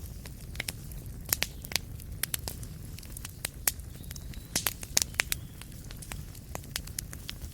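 Wood fire crackling in a fireplace: sharp, irregular pops and snaps over a low, steady rumble, with a burst of louder pops near the middle.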